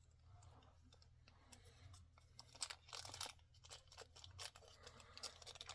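Faint crinkling, crackling and tearing of plastic packaging being handled and opened, a quick run of small crackles and clicks that grows busier about a second and a half in.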